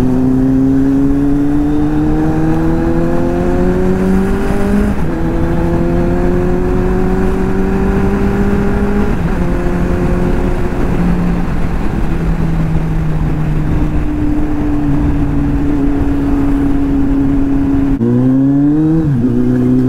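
Kawasaki Z800's inline-four engine pulling through the gears. Its pitch climbs slowly and drops at each upshift, several times, over wind rumble. About 18 seconds in, the sound jumps abruptly to another stretch of revving.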